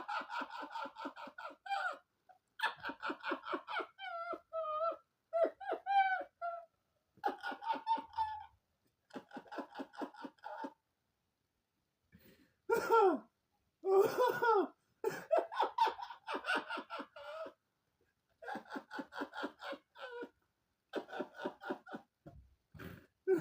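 A person laughing hard in repeated fits of rapid, breathy pulses, with a few high squealing stretches and short pauses for breath.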